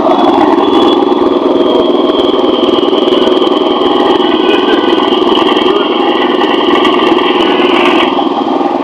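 Four-stroke petrol engine of a Tiger 7.5 HP water pump running steadily and loudly, with a higher-pitched layer on top that cuts out near the end.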